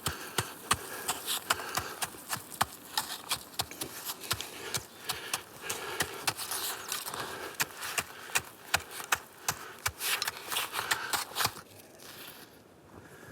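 Hard-packed snow crunching and scraping as it is worked, in irregular sharp strokes about two or three a second, stopping shortly before the end.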